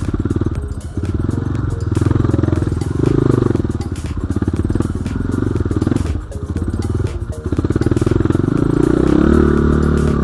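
Dirt bike engine running under load, the revs rising and falling with brief drops in throttle twice, and climbing again near the end, with clattering knocks throughout.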